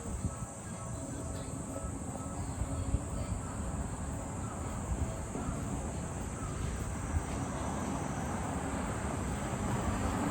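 Insects singing in a steady, high, unbroken drone, over a low rumble.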